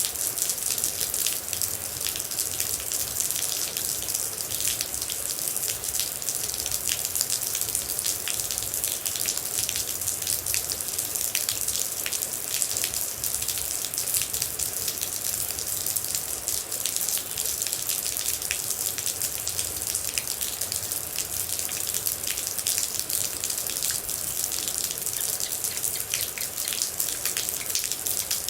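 Steady rain with a dense patter of individual water droplets: a continuous high hiss full of small sharp drop impacts, unchanging throughout.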